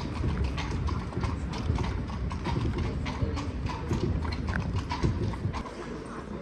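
Hooves of a carriage horse clip-clopping on the street as it pulls a horse-drawn carriage, a steady run of sharp knocks several times a second.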